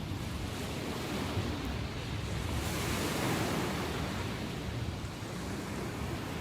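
Ocean waves breaking and washing on the shore, with wind on the microphone. A wave surges louder about three seconds in.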